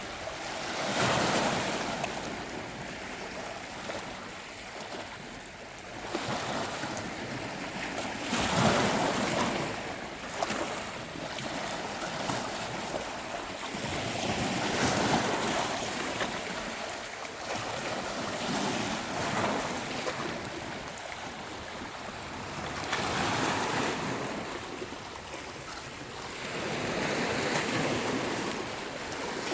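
Sea waves breaking on a beach. The surf swells and falls back about six times, with the loudest breakers about eight and a half seconds in and again around fifteen seconds.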